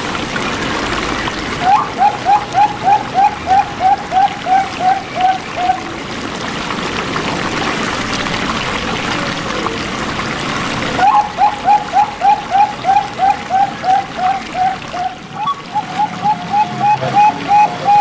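Perkutut (zebra doves) cooing in quick runs of short repeated notes, about three a second, with one run early on and another starting about eleven seconds in that carries on to the end. A steady trickle of running water sounds underneath.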